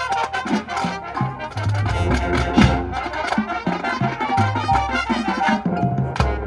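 Marching showband playing: brass section with trumpets and trombones over drums and percussion, with repeated drum hits and a moving bass line.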